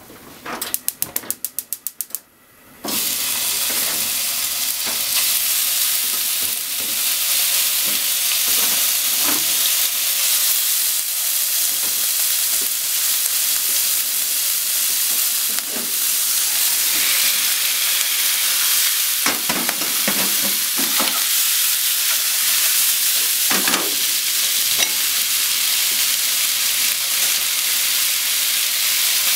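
A quick run of evenly spaced clicks, then pork, onion and potato sizzling in a frying pan from about three seconds in. The sizzle stays steady, with a few knocks and scrapes of stirring.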